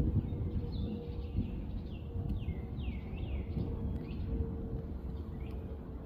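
Small birds chirping, a series of quick chirps that slide down in pitch, repeated a dozen or so times, over a steady low rumble and a faint steady hum.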